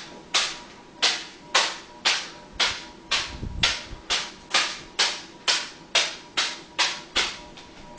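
Hands repeatedly smacking a small plastic pouch of fruit snacks to keep it up in the air: a steady run of sharp slaps, about two a second, getting slightly quicker toward the end.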